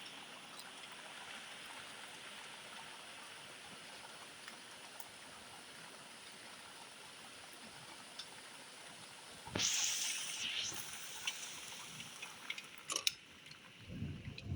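Heavy rain falling steadily, a constant hiss. About nine and a half seconds in, a sudden louder rush of noise that dies away over a second or so, with a few sharp clicks near the end.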